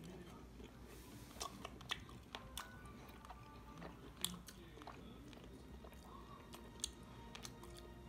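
Quiet eating sounds: chewing, with scattered small clicks and taps.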